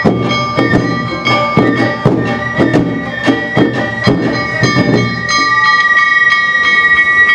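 Awa Odori festival music: a high bamboo flute (shinobue) melody over a steady beat of drums and struck metal. About five seconds in the drumming mostly drops away, leaving a long held flute note.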